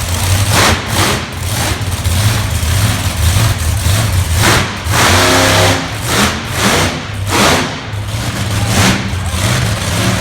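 Monster truck engine running loud, revving in repeated surges that rise and fall every second or so over a steady low drone.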